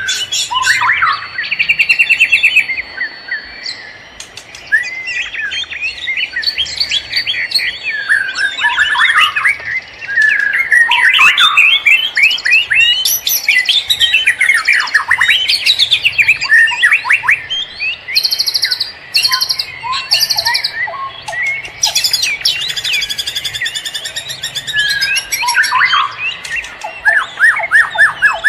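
Several wild forest birds singing and calling over one another: quick sweeping whistled notes, with fast rapid-fire trills and a long, thin, steady whistle mixed in.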